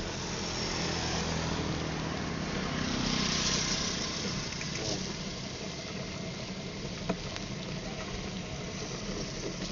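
Motorcycle engine running steadily, heard through an action camera's built-in microphone with rushing wind noise over it. The rushing swells about three seconds in, and there is a single sharp click about seven seconds in.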